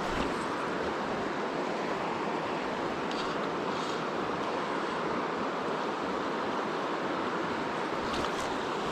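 Small coastal stream flowing: a steady rush of water, with a few faint ticks.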